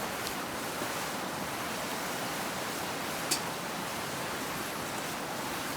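Newly lit campfire burning with a steady hiss and a few sharp crackles, one loud pop about three seconds in.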